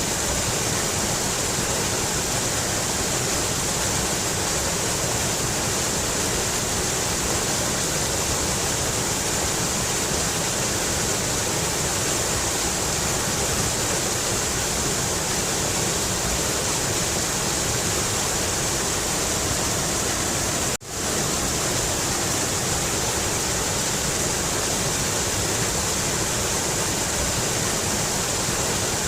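Mountain river rushing steadily over rocks, a dense, even roar of white water, with a momentary dropout about three-quarters of the way through.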